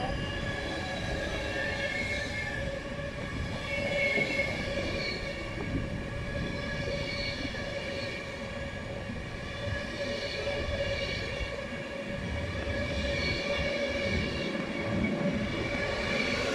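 Train moving at a station: a continuous low rail noise with several steady, slightly wavering high tones over it, typical of wheel squeal.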